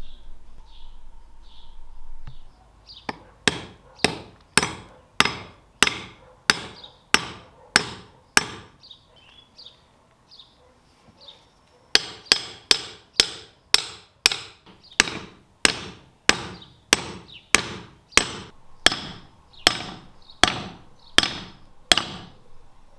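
Hammer blows struck at a steady pace of about one and a half a second. About nine come a few seconds in, then after a pause a longer run of about seventeen.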